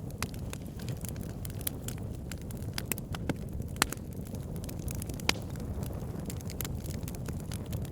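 Wood fire burning with a steady low rumble of flames and frequent irregular crackles and pops from the logs, two sharper pops standing out about four and five seconds in.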